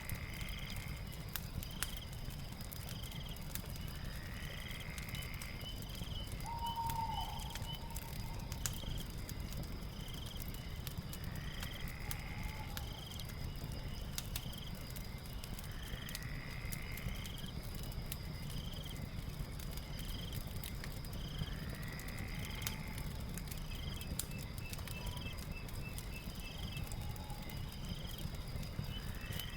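Night ambience of chirping insects and calling night animals, with a steady high drone, short chirps about once a second and a longer call every four to five seconds, over a crackling fire with scattered sharp pops and a low rumble.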